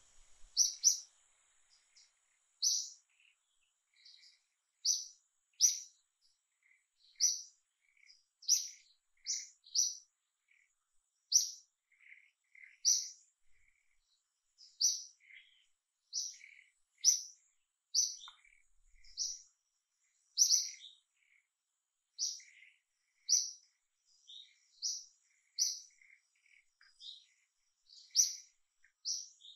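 Bird chirping repeatedly: short, high, falling chirps about once a second, with fainter lower notes in between.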